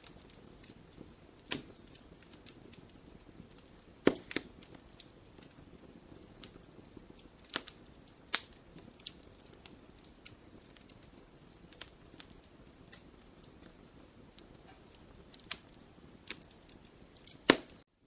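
Wood fire in a fireplace crackling, with irregular sharp pops over a faint steady hiss; the loudest pops come about four seconds in and near the end.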